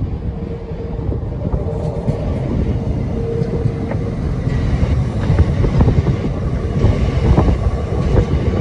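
Lumo Class 803 electric multiple unit running past close by, with a steady rumble and a faint steady whine at first. From about halfway through, the rumble grows louder and the wheels click rapidly over rail joints as the coaches go by.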